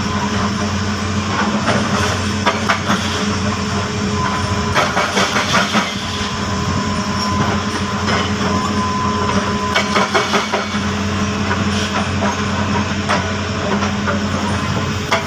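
Heavy diesel machinery running steadily, with bursts of metallic clanking and rattling a few times.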